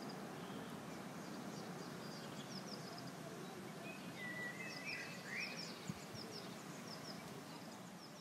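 Quiet outdoor ambience: a steady hiss with small birds chirping repeatedly in short high notes, and a louder warbling call around the middle. A single sharp click a little before six seconds in.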